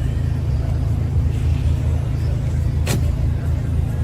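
A car engine running steadily with a deep, low rumble. There is a single sharp click about three seconds in.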